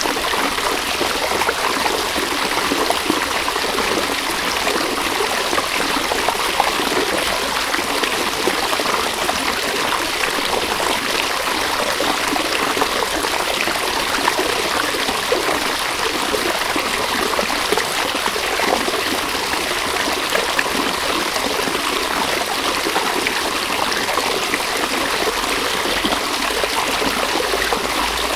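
River water running steadily over stones, a continuous babbling rush with fine splashing and trickling texture.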